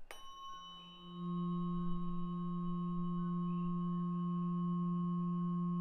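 174 Hz Solfeggio tuning fork struck, with a brief bright metallic ping of high overtones, then ringing a steady low hum that grows louder about a second in and holds.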